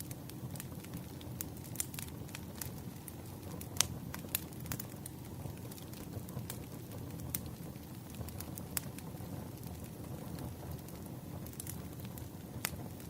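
Wood fire crackling: irregular sharp pops and snaps over a steady low rumble of burning logs, with one louder pop a little under four seconds in.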